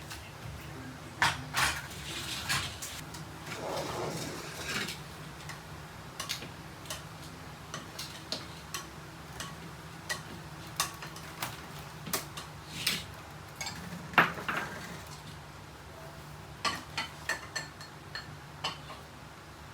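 Utensils clinking and tapping against bowls and plates during a meal: scattered sharp clinks at irregular intervals, over a low steady hum.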